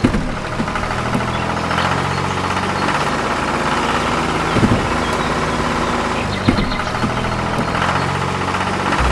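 An engine idling steadily, with a few sharp knocks along the way.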